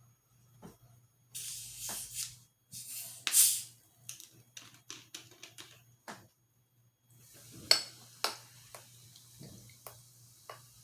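Handling noise: two bursts of rustling hiss, then a run of small clicks and taps, over a faint steady low hum.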